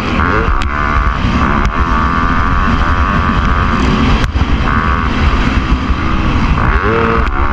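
Motocross dirt bike engine running hard at high revs, the pitch rising and falling as the throttle opens and closes, with a few brief sharp breaks in the sound.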